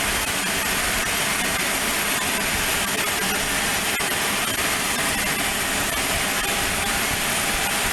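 Steady aircraft engine noise, an even rushing sound that holds at one level throughout.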